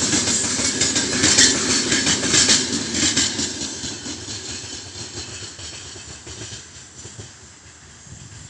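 Freight train's gondola wagons rolling away on the rails, with a few sharp wheel clacks in the first three seconds; the rumble and rattle fade steadily as the tail of the train recedes.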